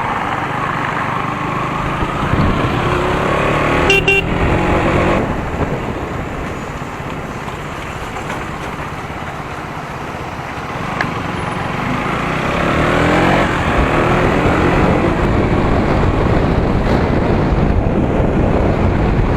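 KTM Duke 200 single-cylinder engine riding through road traffic, revving up as it pulls away, with steady road and traffic noise. A vehicle horn sounds briefly about four seconds in.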